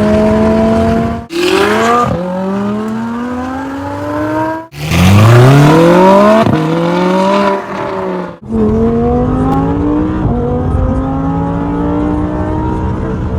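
Audi R8's V10 with a loud aftermarket exhaust, revving hard under acceleration: its pitch climbs, drops at an upshift and climbs again. The sound cuts off abruptly three times between stretches of running.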